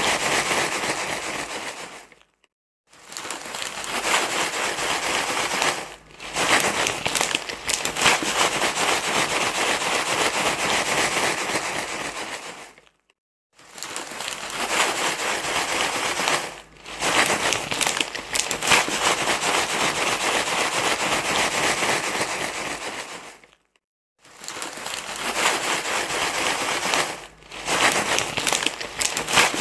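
Loud, continuous crinkly rustling, dense with small crackles, like material being crumpled and rubbed. It breaks off into brief silence three times, about every ten and a half seconds, with shorter dips in between.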